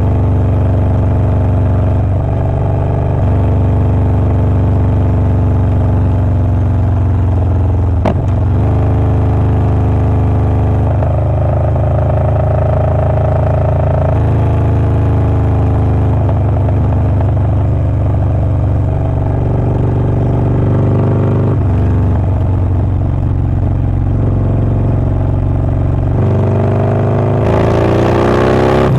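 Harley-Davidson Low Rider S's Milwaukee-Eight 117 V-twin with a Wood Performance 777XE cam, running steadily while its engine note steps to a new pitch every few seconds. Near the end it revs up with a rising pitch.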